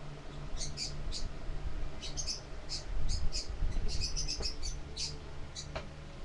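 Birds chirping: many short, high chirps in quick irregular runs, over a steady low hum, with some low rumbling about three seconds in.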